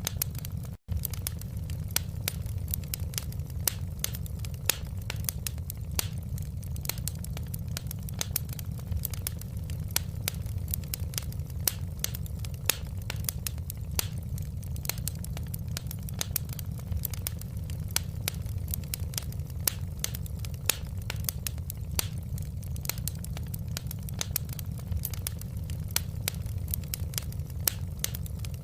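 Wood fire in a fireplace crackling steadily: many sharp, irregular pops and snaps over a low, even rumble of the flames. The sound drops out for an instant less than a second in.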